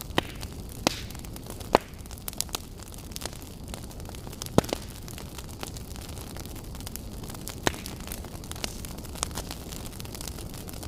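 Wood fire crackling in a fireplace: a steady low rumble of flames with irregular sharp pops, the loudest about four and a half seconds in.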